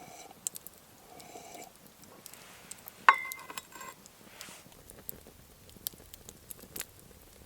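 Campfire sounds: scattered small crackles and knocks, with one sharp metallic clink about three seconds in that rings briefly. A short pitched call comes about a second in.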